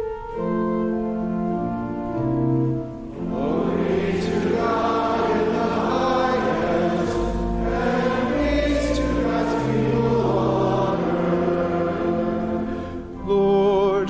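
Organ playing steady held chords, joined about three seconds in by a congregation singing a liturgical response. Near the end a single voice with vibrato sings over the accompaniment.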